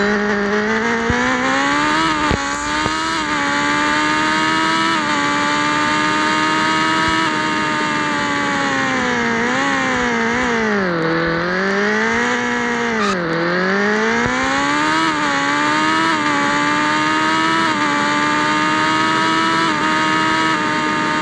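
Yamaha XJ6 inline-four motorcycle engine running through an open pipe with no muffler, held at steady revs while riding. The pitch drops and climbs back twice, a little past the middle, as the throttle is closed and reopened.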